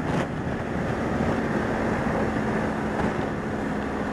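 BMW R1200GS Rallye's boxer-twin engine running at steady speed through a Remus exhaust end can, under a continuous rush of wind and road noise. The engine settles into a steady note about a second in.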